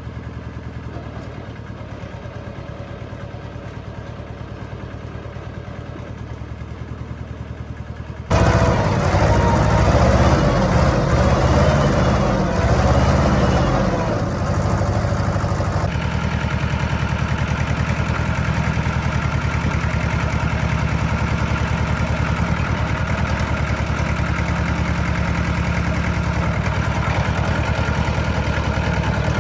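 An engine idling steadily. About 8 s in the sound jumps suddenly louder, goes uneven for several seconds as if revving, then settles into a steady, louder idle.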